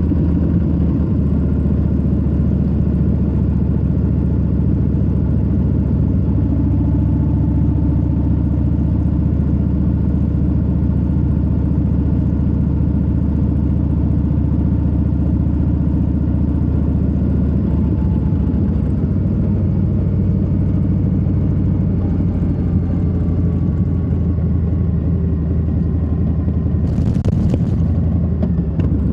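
Harley-Davidson Low Rider S's Milwaukee-Eight 117 V-twin running steadily while the bike cruises, with a brief hiss about two seconds before the end.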